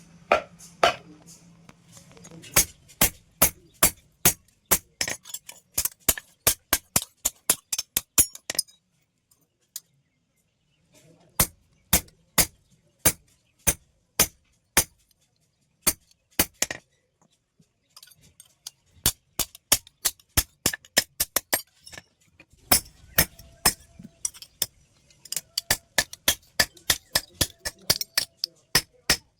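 Hammer blows ringing on steel as a plate is forged into a hoe, in fast runs of about three to four strikes a second broken by short pauses.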